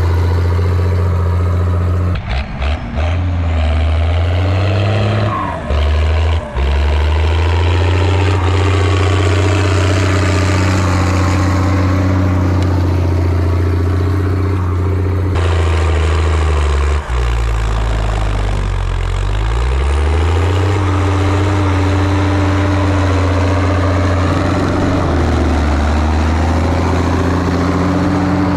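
Zetor ZTS 16145's turbocharged diesel engine running hard under load, pulling a cultivator deep in the soil. Its pitch dips and recovers a few times in the first seven seconds, and drops and climbs back again about two-thirds of the way through.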